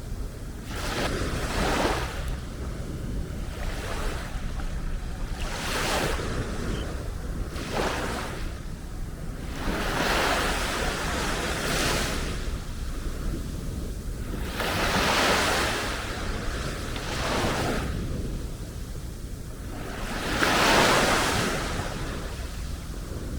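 Small sea waves breaking and washing up on a beach, coming in as repeated swells of hiss every couple of seconds. The largest come about ten, fifteen and twenty-one seconds in.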